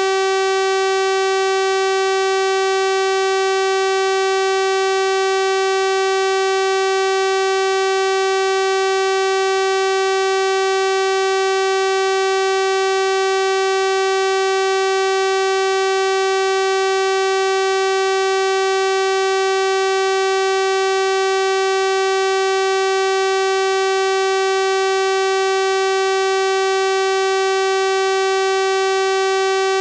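A steady, unchanging synthesized 384 Hz sawtooth-wave tone, a buzzy electronic note rich in evenly spaced overtones.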